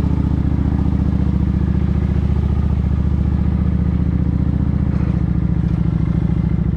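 Motorcycle engine running steadily at low revs, with an even, unchanging note.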